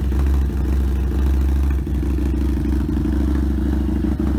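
Harley-Davidson Street 750's liquid-cooled V-twin running steadily at idle through its aftermarket stage 1 exhaust.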